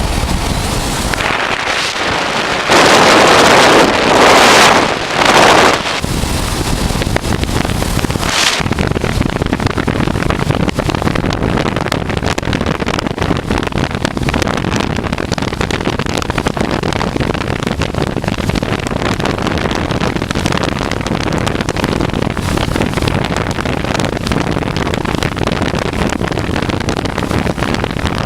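Honda Transalp V-twin motorcycle riding along at steady speed, its engine under heavy wind noise on the microphone. Three louder rushes of wind come between about three and six seconds in.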